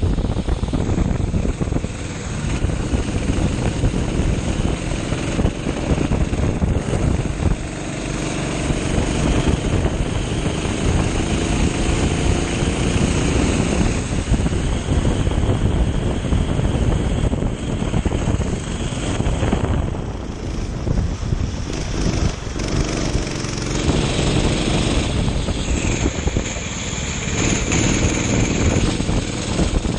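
Kart engine running hard on track, its note rising and falling with throttle through the corners, under heavy wind noise on the onboard microphone.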